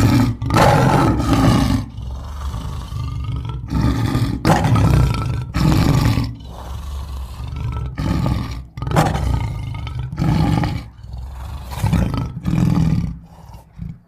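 Roaring sound effect: a string of loud roars, one after another, starting abruptly out of silence and fading out near the end.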